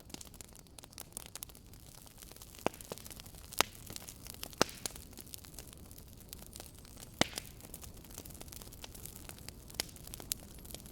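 Wood fire crackling: a low steady hiss with irregular sharp pops and snaps, a few louder pops standing out.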